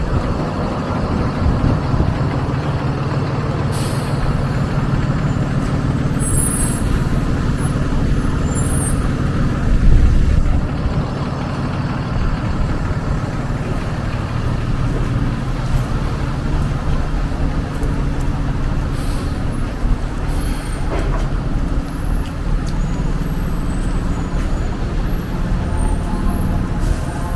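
Street traffic with a heavy vehicle's engine running close by: a steady low rumble that swells briefly about ten seconds in.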